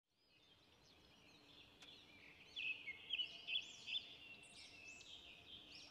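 Small birds chirping and twittering, many overlapping calls, fading in from silence. A cluster of louder chirps comes in the middle.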